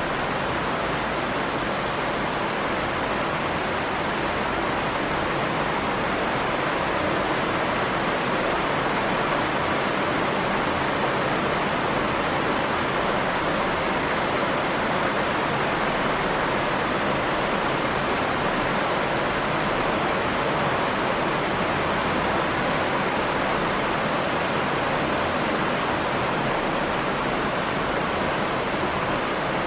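Steady rain falling: an even, unbroken hiss that holds the same level throughout, with no single drops or thunder standing out.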